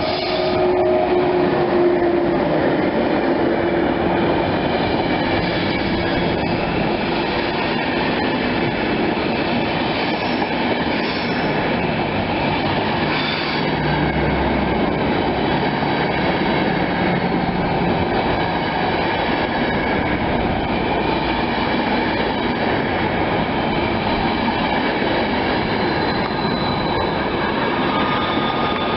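A train running past on the rails, a loud steady noise of wheels on track that lasts the whole time, with thin high squealing tones from the wheels over it.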